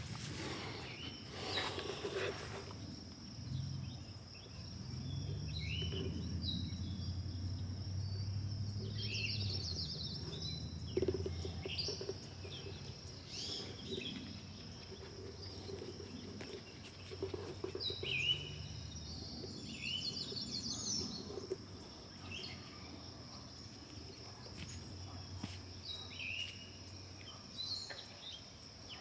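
Birds chirping in short calls every few seconds over a steady high-pitched hum, with a low rumble during the first third.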